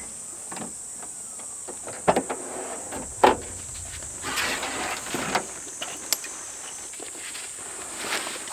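Steady high-pitched insect buzzing, with a few sharp knocks about two and three seconds in and a stretch of rustling in the middle, as gear is handled close by.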